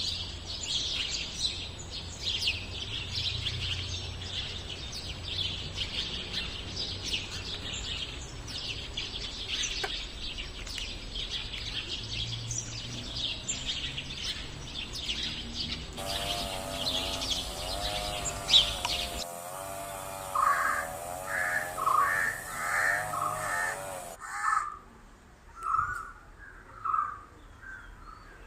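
Many small birds chirping and twittering densely over a low rumble. About two-thirds through, this gives way to a single bird calling in a run of repeated calls, about two a second at first and then slower, with a wavering trill behind them for a few seconds.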